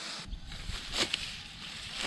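Rice stalks being cut by hand in a waterlogged paddy: a rustling haze with two quick swishing strokes about a second in.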